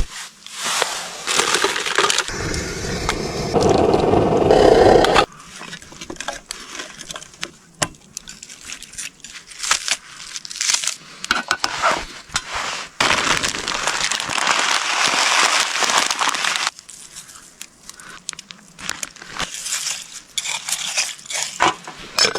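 Camp cooking sounds: a run of sharp knocks, cracks and clatter, with two stretches of steady hissing noise that start and stop abruptly, about two seconds in and again after about thirteen seconds.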